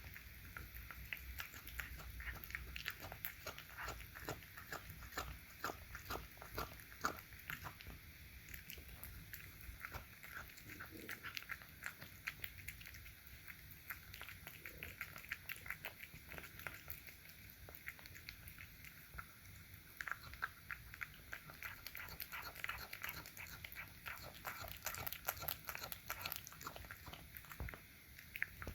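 A cat eating, with a fast run of small chewing and mouth clicks.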